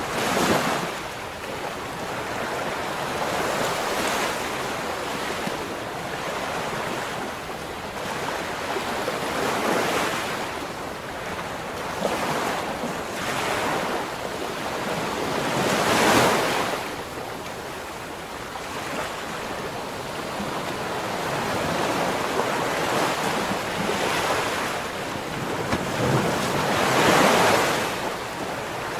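Ocean waves breaking and washing on the shore, with surges every few seconds, the largest about sixteen and twenty-seven seconds in, over a constant hiss of surf.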